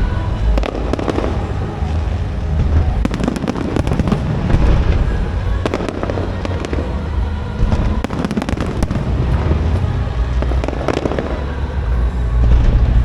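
Aerial fireworks bursting in a dense, continuous run of bangs and crackles over a deep booming rumble.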